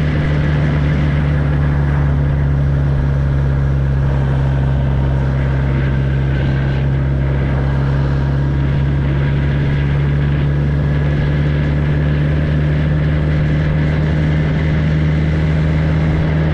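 Kawasaki ZX-10R inline-four engine running with no tailpipe fitted, its open exhaust note holding one steady pitch with no revving throughout.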